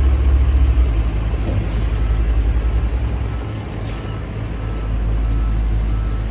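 Heavy diesel engines of road-paving equipment running with a deep, steady rumble, and a short hiss of air about four seconds in.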